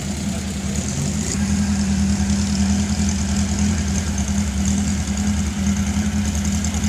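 Air-cooled flat-four engine of a Porsche 356 coupé idling as the car creeps forward, its note stepping up slightly about a second in and then holding steady.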